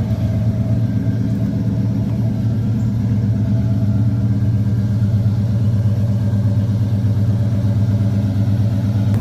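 1991 Ford F-150 engine idling steadily with a low, even rumble.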